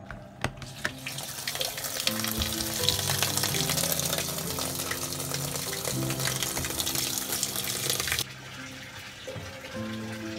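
Water running in a steady hiss that cuts off suddenly about eight seconds in, over background music, with a few clicks in the first second.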